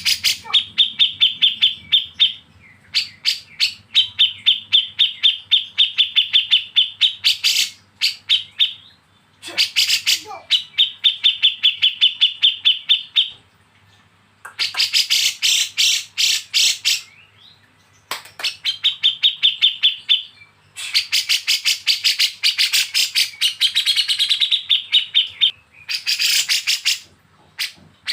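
Songbird giving bursts of rapid, harsh chattering 'besetan' calls, about eight notes a second, each burst lasting a few seconds with brief pauses between.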